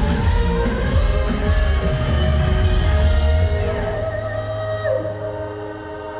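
Live rock band playing a song: full band with heavy drums and bass, which drop out about three and a half seconds in, leaving held guitar and keyboard notes ringing.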